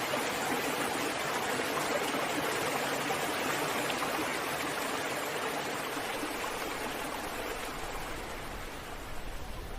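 Continuous rushing water, a steady wash with no separate breaking waves, easing off a little in the last few seconds as a deep low rumble comes in.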